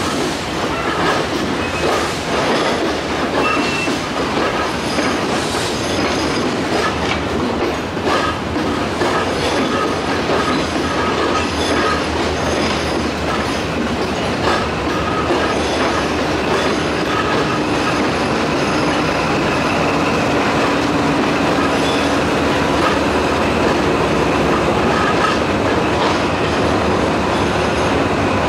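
Train of coaches and wagons rolling slowly past, its wheels clicking and knocking over rail joints and points with some wheel squeal. From about two-thirds of the way in, a steadier hum comes in as the Class W3 diesel locomotive draws near.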